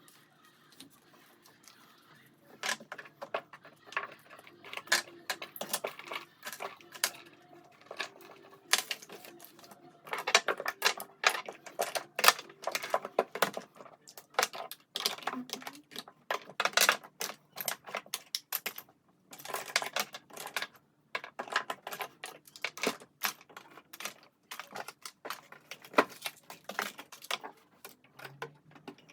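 Small hard objects being handled and set down: an irregular run of sharp clicks and taps that starts about two and a half seconds in.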